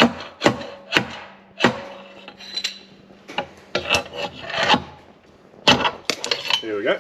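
A hammer striking metal, tapping a just-fitted mower bearing back out by its outer edge: a string of sharp metallic knocks at uneven spacing, some leaving a short ring.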